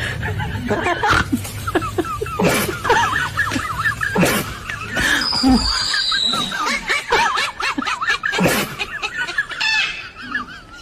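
A small bird chirping and chattering rapidly, with several short rushes of noise and one higher falling whistle about five seconds in.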